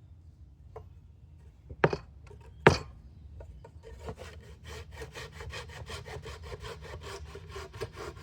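Two sharp knocks of wood, then a hand saw cutting through a board in fast, even strokes from about four seconds in.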